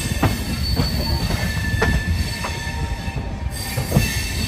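Moving passenger train heard from an open coach door: wheels rumbling on the rails, with a few sharp irregular clacks over rail joints and points and a thin, steady high wheel squeal.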